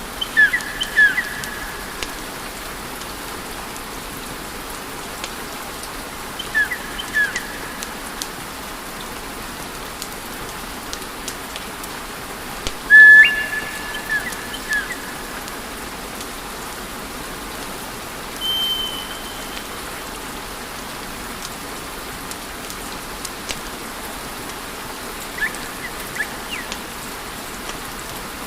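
Wood fire burning in a fireplace: a steady hiss with scattered light crackles and pops. Several short, high whistling tones cut through it, the loudest about halfway through.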